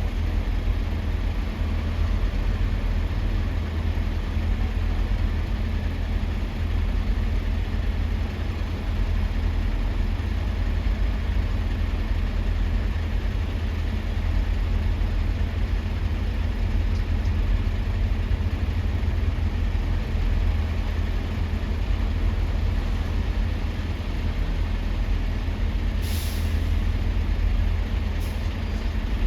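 Steady low rumble of heavy trucks' diesel engines, with a short hiss of a truck's air brakes about 26 seconds in and a fainter one shortly after.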